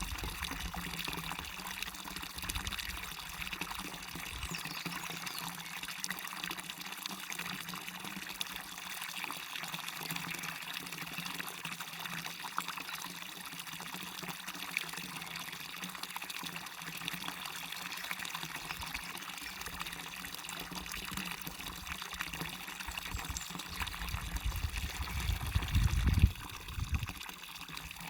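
Small waterfall pouring and splashing steadily into a stream, a continuous hiss of falling water. A low rumble rises briefly near the end.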